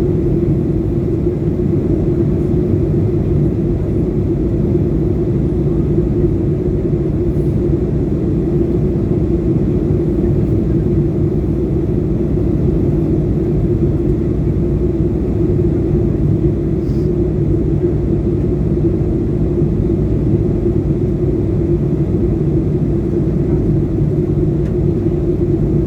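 Steady drone of an airliner cabin in flight: engine and airflow noise with a constant hum and low rumble, no change throughout.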